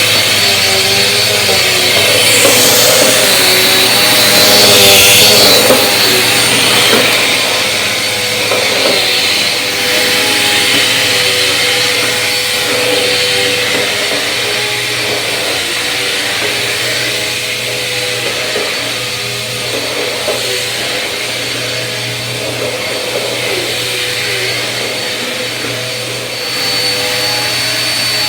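Bissell vacuum cleaner running continuously: a steady motor hum and whine over airflow hiss, with some tones wavering slightly in pitch.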